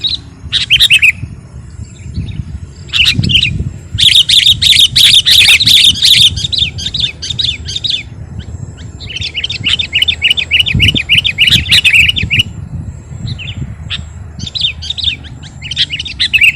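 Sooty-headed bulbul (kutilang) in full, chattering song: loud runs of quick, chirpy notes delivered in several bursts with short pauses between, the longest in the middle. A low steady rumble runs underneath.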